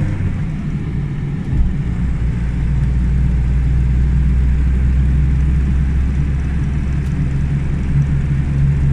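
Steady low engine rumble of a motor vehicle, with a deeper drone that grows louder about a second and a half in.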